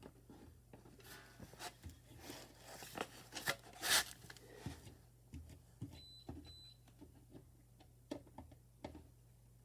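Hands working at a burglar alarm control panel: scattered small clicks and knocks with rustling, scraping handling noise, the loudest scrape about four seconds in.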